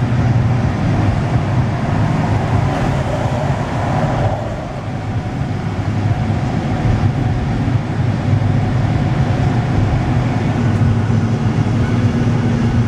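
Steady engine and road noise of a moving vehicle, heard from inside the cab, with a brief swell about three seconds in.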